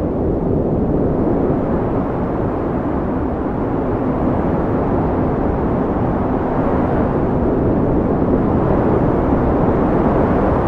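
Steady wind blowing, a low rushing noise that swells a little louder in the second half.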